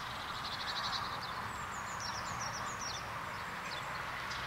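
Small songbirds singing: a quick trill about half a second in, then several short, high, falling chirps, over a steady low background hiss.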